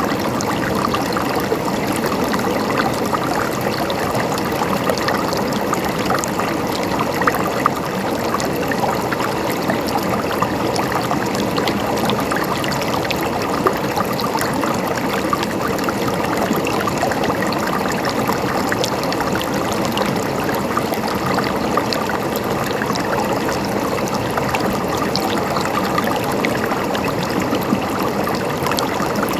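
A mountain stream flowing and gurgling steadily over stones, with many small splashes.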